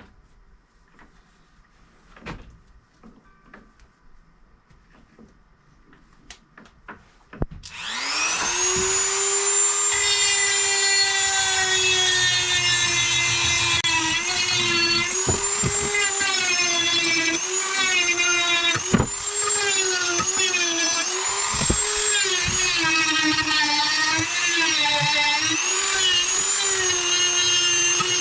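A few light handling clicks, then a Dremel rotary tool starts about 8 s in and runs at a high whine working the inside of a crowbar, its pitch dipping and wavering repeatedly.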